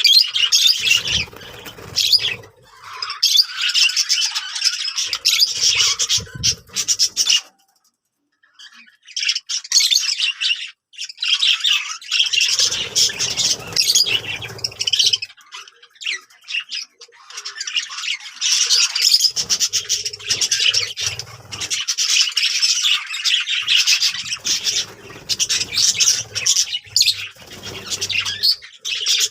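Budgerigars chattering and warbling in fast, scratchy runs of chirps and squawks, with a short pause about a quarter of the way in.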